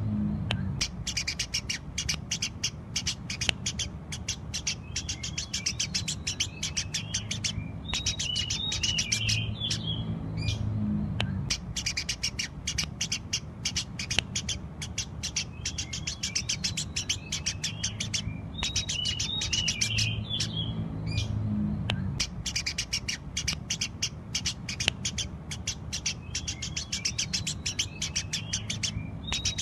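Eurasian tree sparrows chirping in a lively, nonstop stream of rapid, high chirps, broken by short pauses every few seconds, over a steady low hum.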